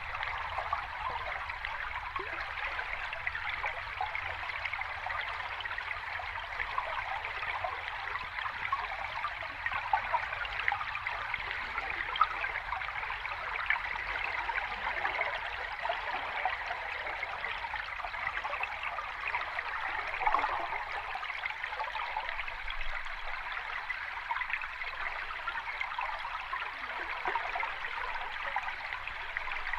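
Water running steadily in a small cascade, a constant light babbling rush with little low rumble.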